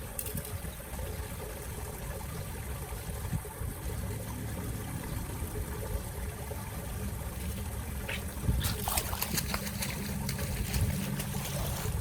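Water trickling and flowing steadily, with a cluster of sharp, brief sounds from about eight and a half seconds in.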